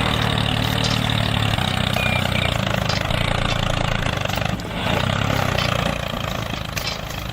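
Tractor engine idling steadily, with a short dip in level a little past halfway.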